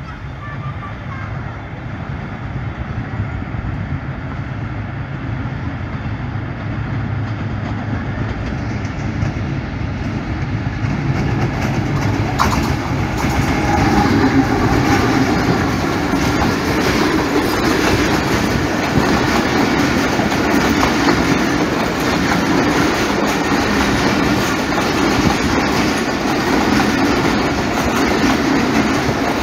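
Pakistan Railways diesel-electric locomotive approaching and passing close, its engine growing steadily louder up to about halfway through, then a long train of passenger coaches rolling past on the rails.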